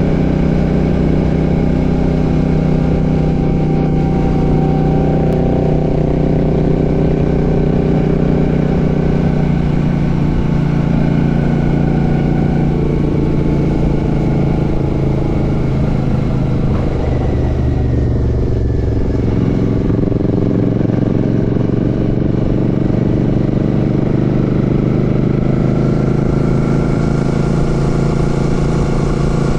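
Royal Enfield Classic 650's 648 cc parallel-twin engine running steadily under way, heard from the rider's seat. Its note changes about two-thirds of the way through.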